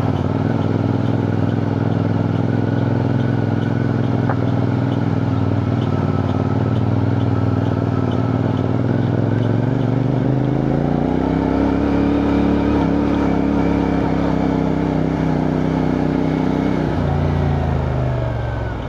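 CFMoto 450NK's parallel-twin engine running steadily under way, its note changing about ten seconds in and easing off near the end.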